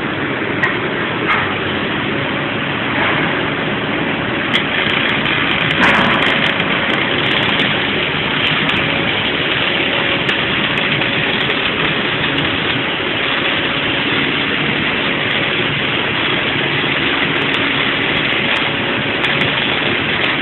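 Loud, steady machinery noise with a faint steady hum and scattered sharp clicks.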